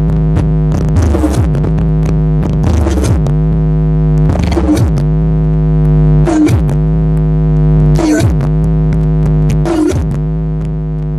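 Electronic synthesizer jingle played loud over a large sound system: a sustained synth chord over a deep bass drone, with a falling synth sweep recurring about every one and a half to two seconds. It begins to fade near the end.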